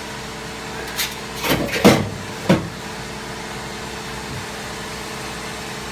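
Workshop air compressor running with a steady hum. About four sharp knocks come over it between one and two and a half seconds in.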